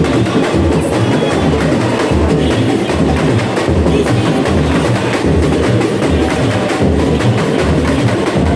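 Samba bateria playing a samba beat: deep bass drums keep a steady pulse about twice a second under dense, fast higher percussion.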